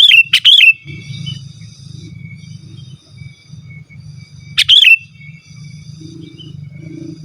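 Sooty-headed bulbul calling loudly: a quick run of three sharp notes at the start and two more about four and a half seconds in, with fainter chirps in between.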